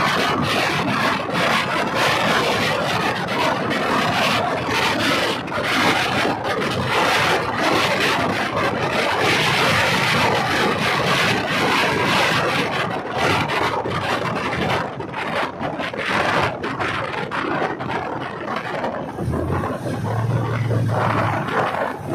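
Diesel multiple unit train running along the track: a loud, continuous rattling and clattering of the carriage and wheels on the rails, with a rushing noise. About 19 seconds in the rushing thins out and a low, steady hum comes forward.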